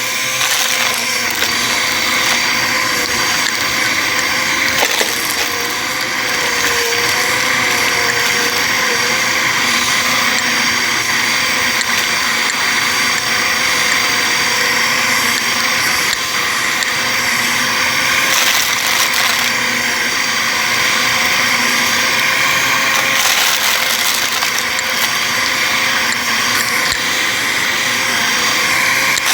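Bissell vacuum cleaner running steadily, its motor giving a high whine over a rushing airflow.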